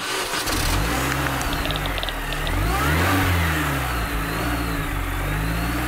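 Car engine sound effect: the engine revving, its pitch rising to a peak about three seconds in and then falling away.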